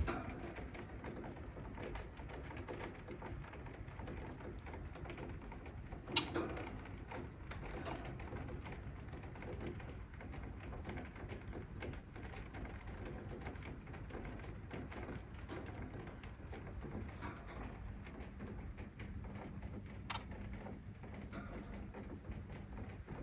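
Steady soft rain-like noise, with society finches calling now and then: one sharp, loud short sound about six seconds in and a few faint short chirps later.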